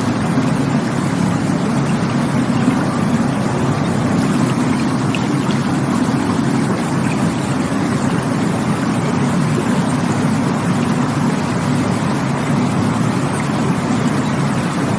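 Rushing water, a steady unbroken rush with most of its weight in a low rumble.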